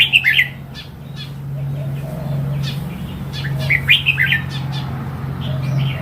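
Red-whiskered bulbul singing two short bursts of quick, warbled notes, one at the start and one about four seconds in, over a steady low hum.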